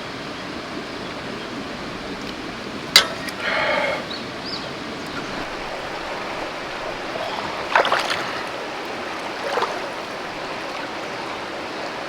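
A mountain river's shallow stream flowing with a steady rush of water. A sharp knock about three seconds in is followed by a short rushing noise, and a few smaller knocks come later.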